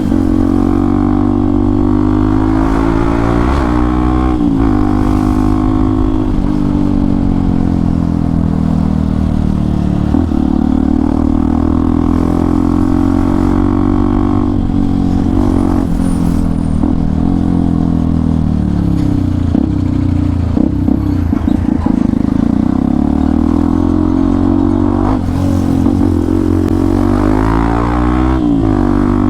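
Hero XPulse 200 4V's single-cylinder engine through an Akrapovic exhaust while riding, its note rising and falling with the throttle and gear changes. There is a sharp rise about three seconds in and another near the end.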